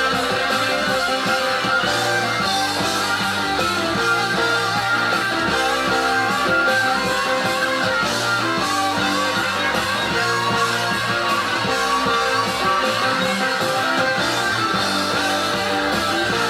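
Live rock band recording: electric guitars play winding lead lines over bass and drums in a long instrumental jam.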